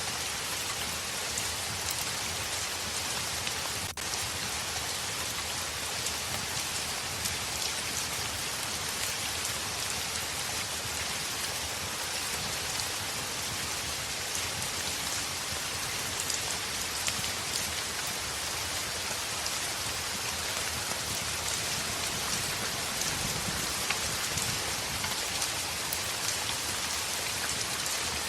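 Steady heavy rain on a window: an even hiss dotted with many fine drop ticks.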